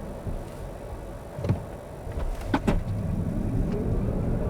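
Inside the cabin of a Smart #5 BRABUS electric car: low road rumble with a few clicks, then, late on, the electric drive's whine rising steadily in pitch as the car begins a full-power Sport-mode acceleration run.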